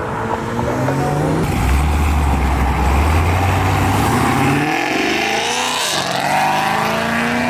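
Car engines revving hard as cars pull away: a deep, loud engine note, then another climbing in pitch as a car accelerates.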